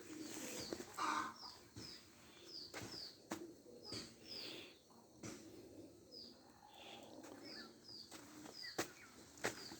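A bird calling with short, high, downslurred notes, repeated every half second or so and often in pairs, with a few sharp clicks among them.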